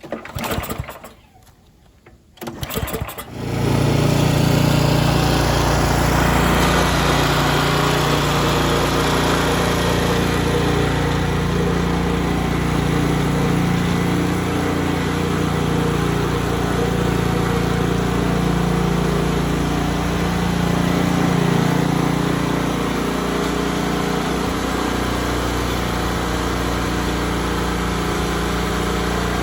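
Snowblower's Tecumseh engine being started on its plug-in electric starter: two brief cranks, then it catches about three seconds in and runs steadily.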